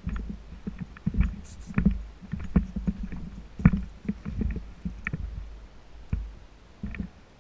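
Irregular footsteps, roughly one or two a second, each a low thump with a short click, over a low rumbling rustle of clothing and gear that fades near the end.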